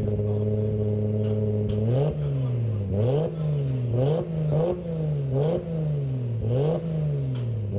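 Nissan Skyline engine idling steadily, then revved in quick blips about once a second from about two seconds in. Each blip rises sharply and falls back more slowly toward idle.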